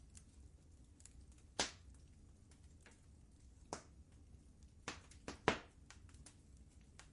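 Wood fire crackling in a fireplace: irregular sharp pops and snaps, the loudest about a second and a half in and again about five and a half seconds in, over a low steady rumble.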